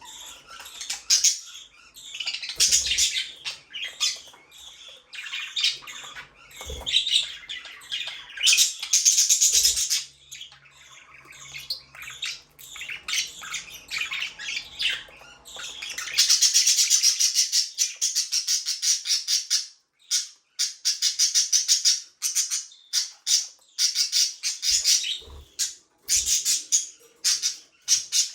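Budgerigars chattering and chirping, with squawks and quick runs of high chirps. It turns into a dense, unbroken stretch of rapid chatter a little past halfway through.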